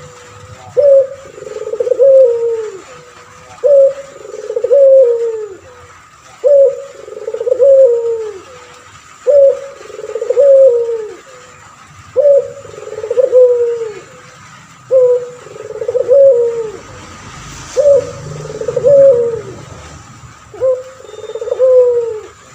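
A male puter pelung, a domestic dove kept for its long coo, cooing over and over. Each phrase is a short coo followed by a longer coo that falls in pitch, repeated about every two and a half to three seconds.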